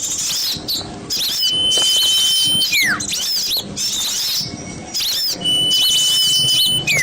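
Lure recording of a flock of small songbirds calling noisily: a dense chatter of quick rising-and-falling chirps. Twice a long held whistle ends in a steep downward slide in pitch, the pattern repeating as if looped.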